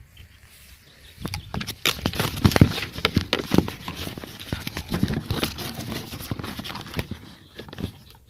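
Irregular squelching and knocking in thick mud, a busy run of thuds from about a second in until near the end, with no engine running.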